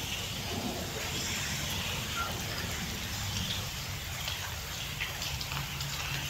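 Steady rain falling, a continuous even hiss, with a low rumble underneath.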